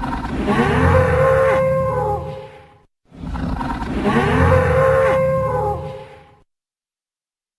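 Dinosaur sound effect: a long, deep animal call with an arching pitched cry over a low rumble, about three seconds long. The identical call plays again right after a brief gap.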